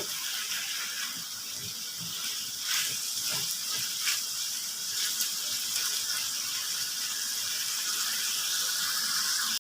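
Strips of liver sizzling in oil in a hot frying pan, a steady hiss, with a few light knocks of the spoon as it is stirred.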